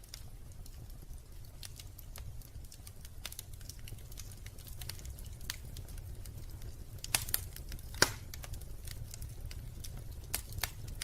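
Wood fire crackling in a fireplace: irregular small clicks and pops, a few sharper and louder ones about seven and eight seconds in and again near the end, over a steady low rumble.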